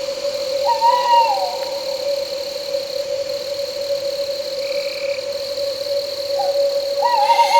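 An owl hoots twice, each call a short slurred note lasting under a second, once about a second in and again near the end. Under it runs a steady high-pitched trill of crickets and night insects along with a steady lower drone.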